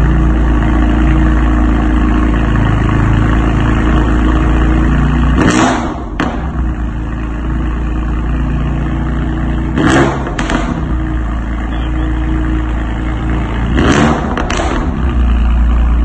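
BMW S55 twin-turbo straight-six running through an aftermarket exhaust, a steady deep drone with short sharp bursts about every four seconds.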